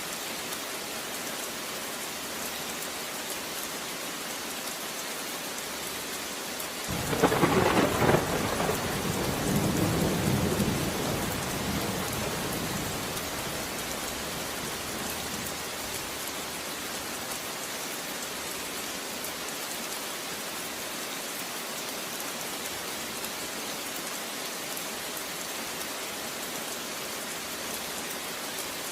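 Steady rain falling, with one thunderclap about seven seconds in that cracks suddenly and then rumbles down over several seconds.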